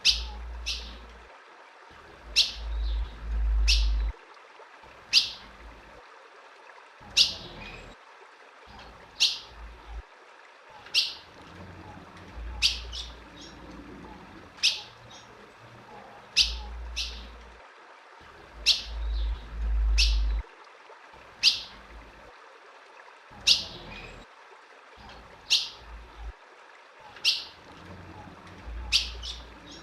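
Female ultramarine grosbeak (azulão) giving short, sharp chip calls, one about every one to two seconds. Low rumbles come and go underneath, loudest around three to four seconds in and around twenty seconds in.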